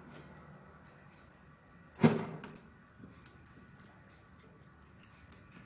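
Metal valve-train parts (valve springs, retainer cups and collet locks) being fitted onto a diesel cylinder head by hand: one sharp metallic clack about two seconds in that rings briefly, with light clicks before and after.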